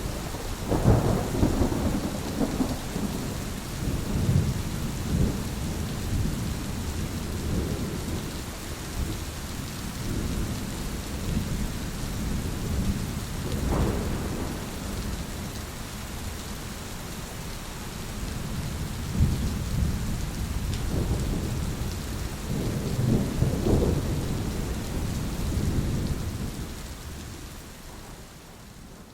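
Thunderstorm: steady rain hiss with thunder rumbling again and again, a loud peal about a second in, more rolls through the middle, and a long rumble that fades away near the end.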